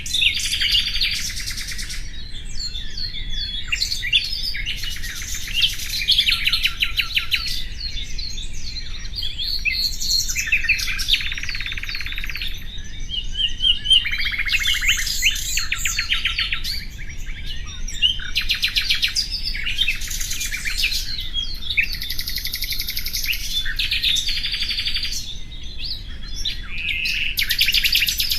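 Nightingale singing: a steady run of varied phrases, each a second or two long, many built of rapid trills of repeated notes, with short pauses between them.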